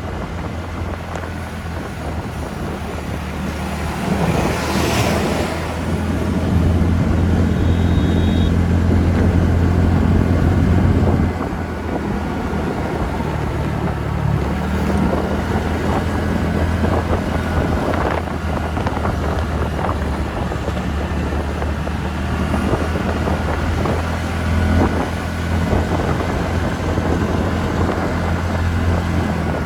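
TVS Ntorq scooter's single-cylinder engine running while riding, with wind noise on the microphone. It gets louder between about four and eleven seconds in.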